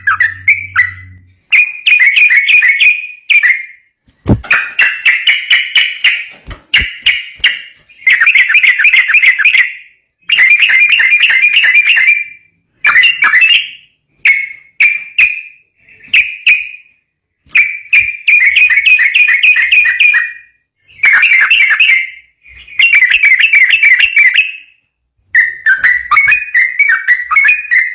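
Yellow-vented bulbul (trucukan) singing fast, bubbling chattering phrases one after another with short pauses between them. A few faint clicks come between about four and seven seconds in.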